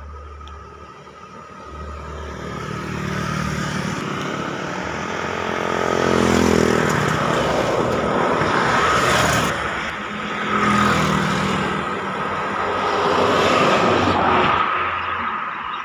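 Road traffic passing close by: several vehicles go past one after another, their engines swelling and fading, with one engine dropping in pitch as it passes about six seconds in.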